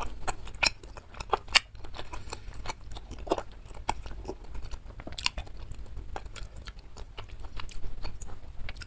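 Close-miked chewing of chewy bakso aci (tapioca meatballs), with irregular wet mouth clicks and smacks. The sharpest clicks come about one and a half and five seconds in.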